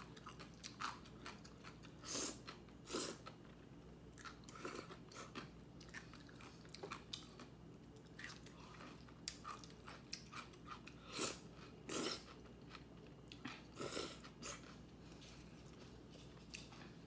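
A person eating close to the microphone: soft chewing and mouth clicks, with a few short, louder bursts of eating noise now and then.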